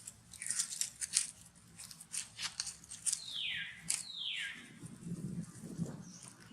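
A baby monkey gives two short high-pitched squeals, each falling in pitch, about three and four seconds in. Scattered crackling, crunching clicks run around them.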